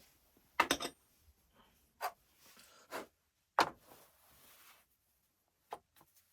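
Handling noises of small hard parts: about half a dozen sharp clicks and knocks, the loudest cluster about half a second in, with light scraping between some of them.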